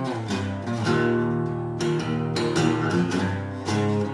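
Acoustic guitar strumming chords in an instrumental passage between sung lines of a country-style song.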